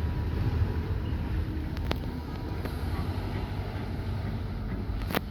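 Steam tank locomotive and its train, a steady low rumble with a sharp knock about two seconds in and a louder one near the end.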